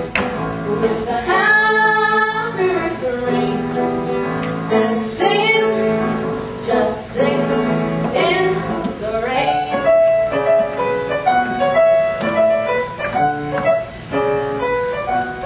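Young voices singing a song with instrumental accompaniment that includes piano.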